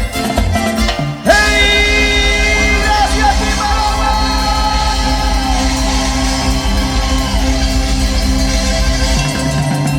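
Live band music over the PA, with a sudden loud new section starting about a second in: held notes over a steady low beat.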